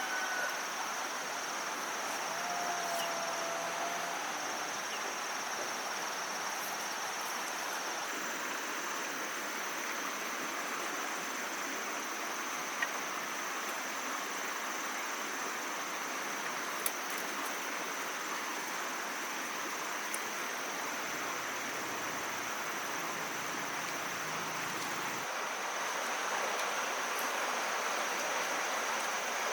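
Insects chirring steadily in one high, unbroken tone over an even outdoor rushing haze, with a short call early on and a few faint clicks.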